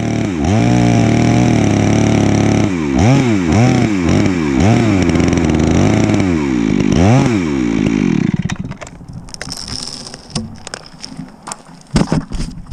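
Two-stroke chainsaw running, its pitch dipping and climbing again about every half second for several seconds, then cutting off about eight seconds in. A scatter of sharp knocks and clatter follows.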